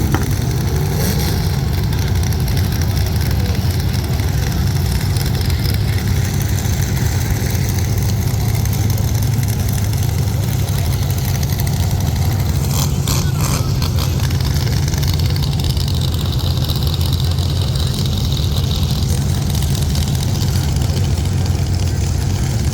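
Engines of full-size demolition derby cars running, a steady low rumble, with a few sharp clicks about 13 seconds in.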